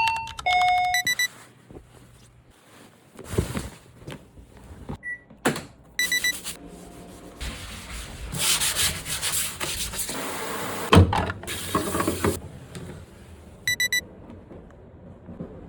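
Scrubbing and rubbing noises of hand cleaning, coming in bursts and longest in the middle stretch, with a sharp knock among them. Short runs of electronic beeps sound at the start, about six seconds in and near the end.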